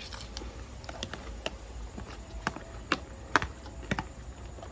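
A series of irregular light clicks and taps, about a dozen over a few seconds, the sharpest a little past the middle.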